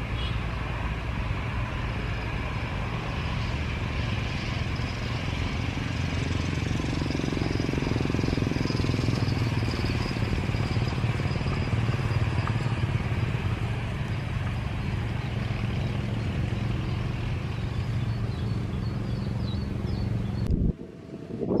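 Jet airliner's engines running with a steady low rumble and a faint high whine, mixed with wind buffeting the microphone; the rumble swells a little partway through and cuts off abruptly near the end.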